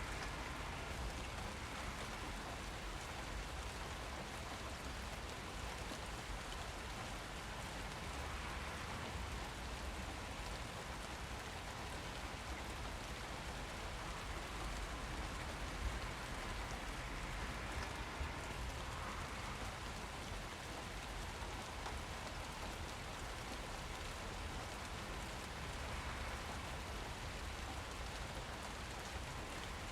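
Steady rain falling and pattering on surfaces, an even wash of sound with a few slightly louder drops.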